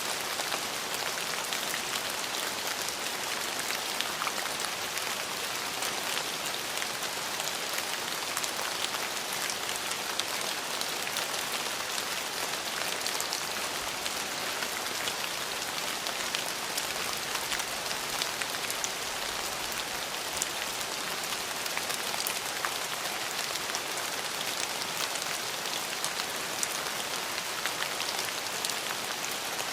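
Steady rain falling, with many fine droplet ticks pattering on a hard surface.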